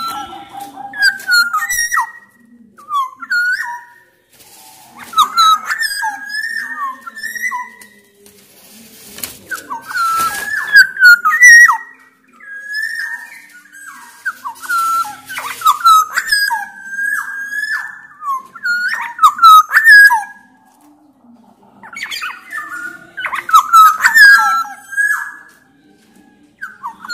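Black-naped oriole singing in loud bouts of short whistled notes that slide up and down, with fast high chatter over them, pausing briefly between bouts.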